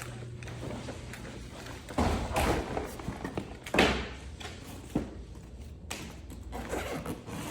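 Several thuds and knocks, the loudest about two seconds and four seconds in, with a couple of sharper clicks after, over a steady low hum.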